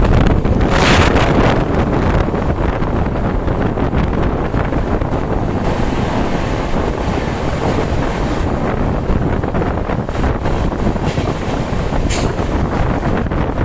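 Steady running noise of a moving train, with wind buffeting the microphone and a brief louder gust about a second in.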